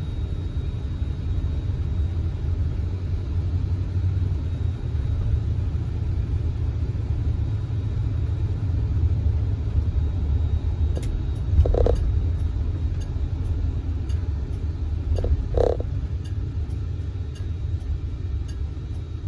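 A 1971 Oldsmobile Cutlass S at expressway cruising speed, heard as a steady low rumble of engine, road and tyre noise; its 350 V8 is turning over without an overdrive gear on the three-speed automatic. Two short thumps come about two-thirds of the way in, and faint quick ticking runs through the last third.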